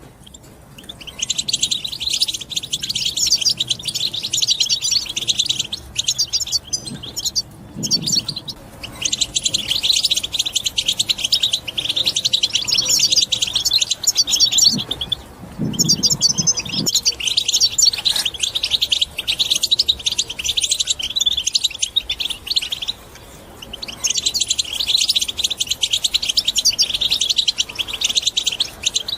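European goldfinch singing its rapid, twittering chatter song in long unbroken bouts with brief pauses between them. A couple of faint low thuds are heard around the middle.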